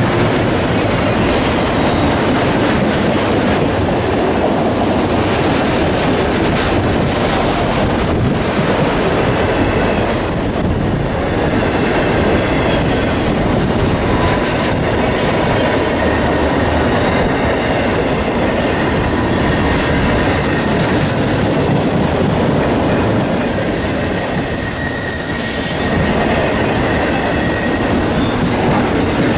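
Freight train of multilevel autorack cars rolling past: a steady rumble and clatter of steel wheels on rail. Thin high-pitched wheel squeals come and go through the second half.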